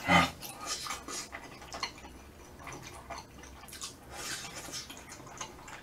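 Close-miked mouth sounds of eating spicy braised chicken with glass noodles: wet chewing and smacking in short, irregular clicks and crackles.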